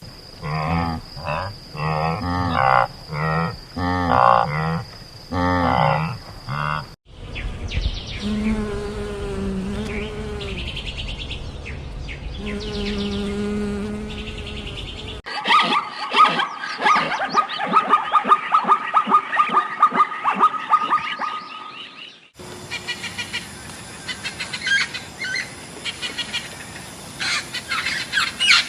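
A run of different animal calls in separate cut-together clips: short repeated pitched calls, then longer drawn-out calls over a low rumble, then dense rapid chirping, then high twittering.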